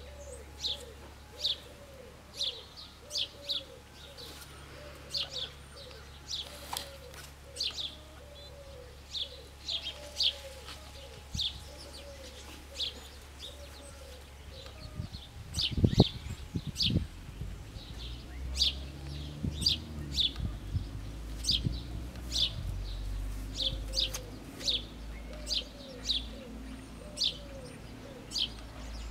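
A small bird chirping over and over, short sharp chirps about two a second, with a lower repeated call beneath it for much of the time. A few dull thumps about halfway through are the loudest moment.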